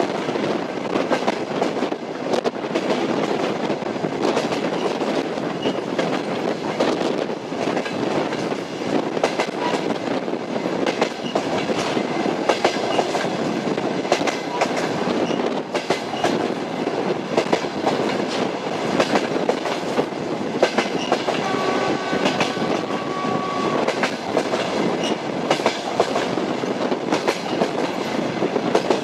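Train wheels clicking over the rail joints at running speed: a steady clickety-clack over a continuous rumble. A held tone of about two seconds sounds about three-quarters of the way through.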